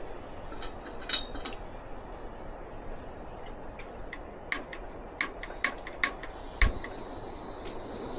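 Metal cookware being handled while setting up to cook: sharp metallic clinks, one about a second in and a quick run of several more a few seconds later, then a duller knock near the end, over a steady low hiss.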